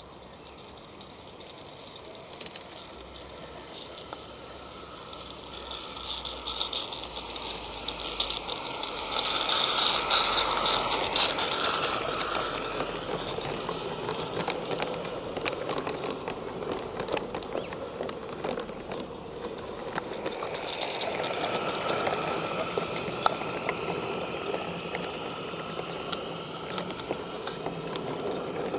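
A small live-steam garden-railway locomotive running with its train: steam hiss mixed with rapid clicking and rattling of small wheels on the track, growing louder to a peak about ten seconds in and swelling again later.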